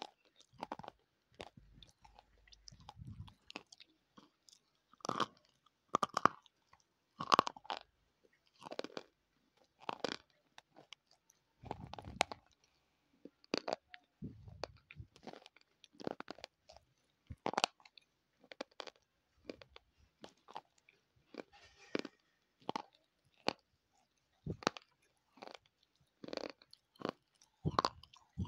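Close-miked chewing of a hard, dry white bar of earthy clay or chalk: sharp, irregular crunches about once a second.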